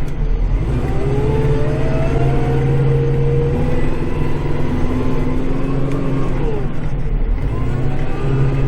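Kubota tractor's diesel engine running steadily under load, heard from inside the cab while it pushes snow, with a whine that rises and falls in pitch over it.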